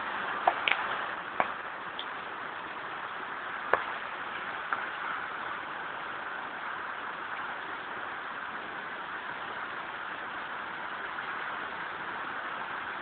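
Steady rushing of flash-flood water, with a few short sharp knocks in the first five seconds.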